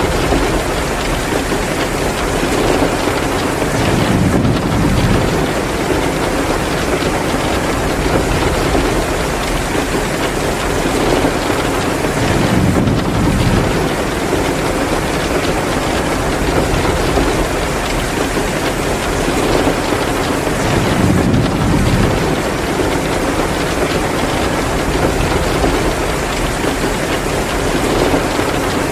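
Heavy, steady downpour of rain, a dense hiss with a low rumbling swell that comes back about every eight seconds.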